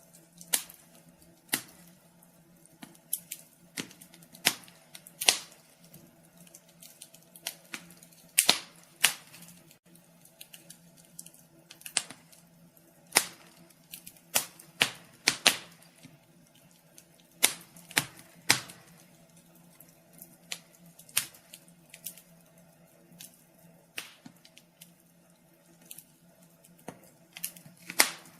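Wood fire in a fireplace crackling: irregular sharp pops and snaps, some loud and some faint, over a faint steady low hum.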